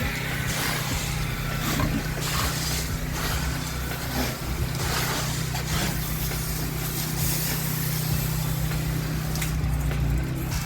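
Pressure washer's engine running steadily at full revs, with the uneven hiss of the wand spraying soap solution onto the house walls.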